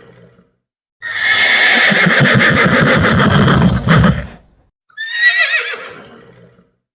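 Horse whinnying: a long, fluttering whinny of about three and a half seconds, then a shorter whinny with falling pitch about five seconds in.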